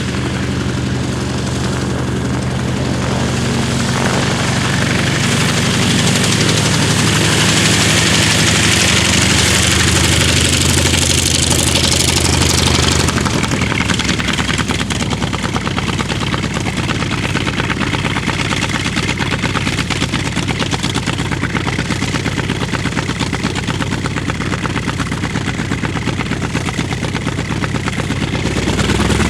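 North American T-28 Trojan's Wright R-1820 nine-cylinder radial engine and propeller on a low flyby. The engine grows louder, then drops in pitch about halfway through as the plane passes, leaving a rough, fast-pulsing run as it moves away.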